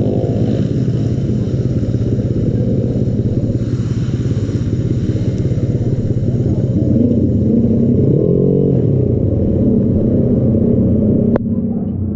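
A motorcycle engine running steadily at idle, with a sharp click near the end after which the higher hiss drops away.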